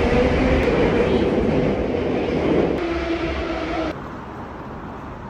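Rail car running: a loud rumble with steady motor whine. It cuts off abruptly about four seconds in, giving way to a much quieter background.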